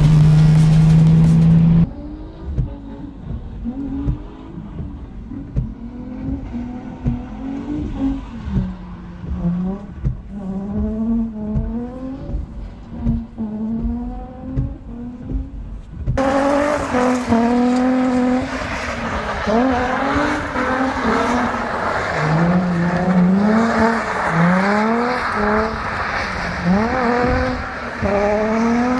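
Car engine revving in repeated quick climbs, each rising in pitch and then dropping off as the throttle is let go, with short gaps between pulls. About halfway through, the sound gets louder and brighter.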